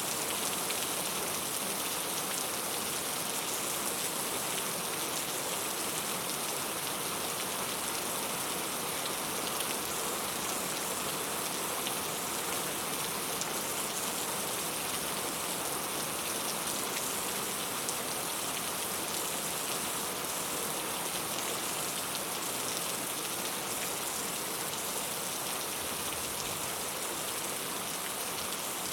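Steady rain, a dense even hiss of raindrops falling on a surface, with no change in strength.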